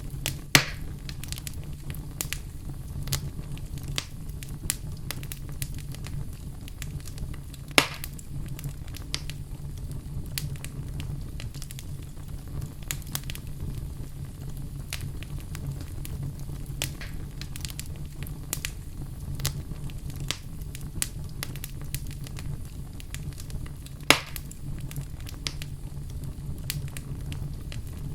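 Wood fire burning in a fireplace: a steady low rumble with frequent small crackles and three loud pops, one about half a second in, one near eight seconds and one near twenty-four seconds.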